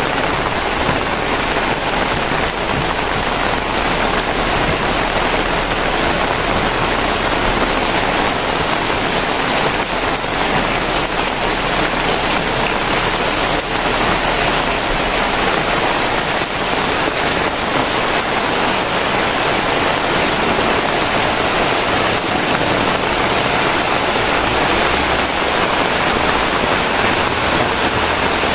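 Very heavy rain pouring down steadily, a dense unbroken hiss of drops striking surfaces.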